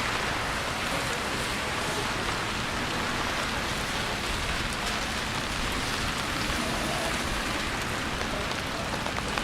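Steady heavy rain falling, an even hiss that holds constant throughout.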